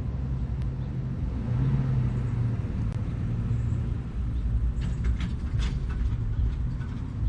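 Mini truck's engine running at a steady idle, a low rumble, with a few faint ticks about five seconds in.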